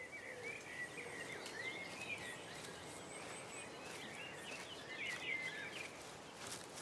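Woodland ambience: small birds chirping repeatedly over a steady background hiss.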